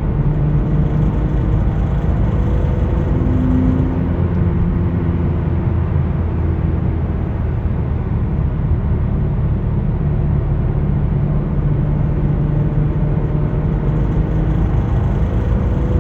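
BMW E46 M3 being driven, its S54 straight-six engine and road noise running at a steady level, with a few faint tones that drift slightly up and down in pitch.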